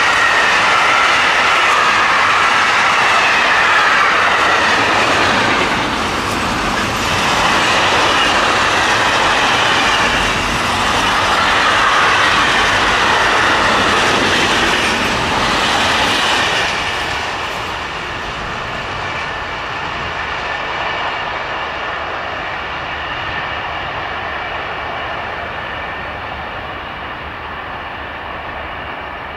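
Train passing close by on the track, loud with a high steady whine over the running noise, then fading away over the last dozen seconds as it moves off.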